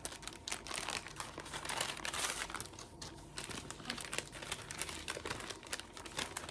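Packaging of a foot peeling pack crinkling and rustling as it is handled, a dense run of small crackles and snaps.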